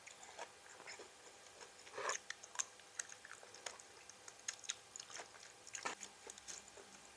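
A person biting and chewing crisp raw vegetables: scattered crunches and wet mouth clicks, with louder crunchy bites about two seconds in and again near six seconds.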